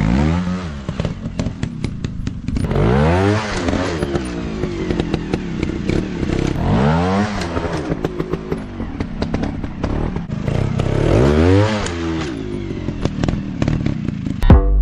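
Single-cylinder four-stroke trail motorcycle engine revving up and falling back about four times as it is ridden off-road, with scattered clattering knocks.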